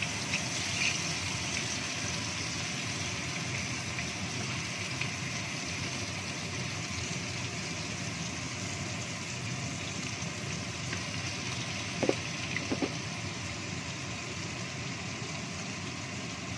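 Blended spice paste frying in hot oil in a wok: a steady sizzle, with a few light clicks near the start and two sharp knocks about twelve seconds in.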